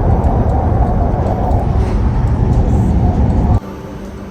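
Canal boat running on the water with a heavy low rumble. About three and a half seconds in it drops suddenly to a quieter, steady engine hum.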